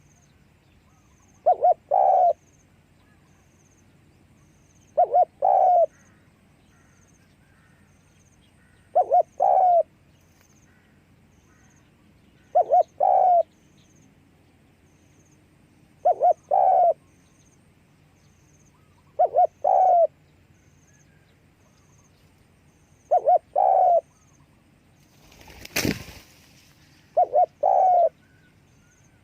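Spotted dove cooing its repeated phrase, eight times at an even pace of about one every three and a half seconds, each two short notes followed by a longer one. A brief rustle, near the end, between two phrases.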